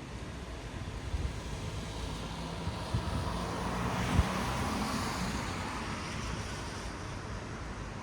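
A vehicle passing on a wet road: the hiss of tyres on wet asphalt swells to a peak about halfway through and fades, over a low engine hum. A single sharp knock comes near the middle.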